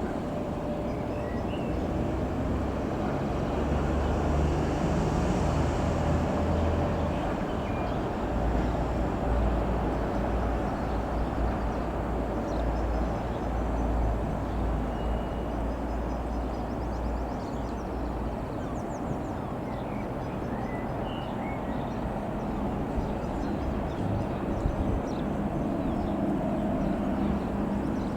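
Single piston engine of an Avid Flyer Mk IV light aircraft droning steadily, with wind rumbling on the microphone. A few short high chirps come in the second half.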